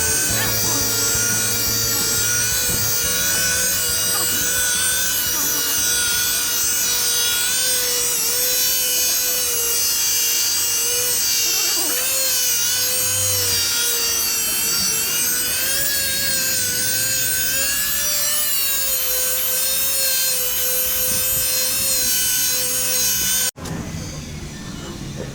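Power tool running steadily with a whine whose pitch wavers slightly, as in workshop bodywork. It cuts off abruptly near the end, leaving a quieter hiss.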